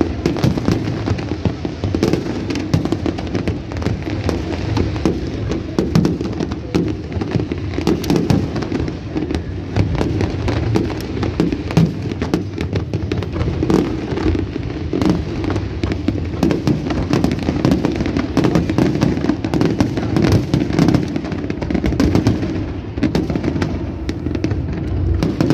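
Large aerial fireworks display: shells bursting overhead in many overlapping bangs in quick succession, blending into a continuous low din.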